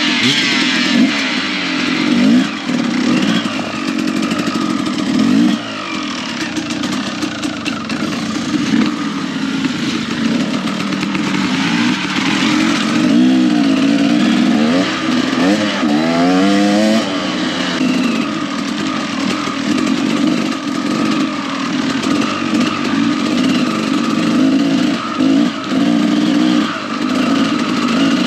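Enduro dirt bike engine being ridden hard, its pitch rising and falling repeatedly as the throttle opens and closes, with a run of quick rises and falls around the middle.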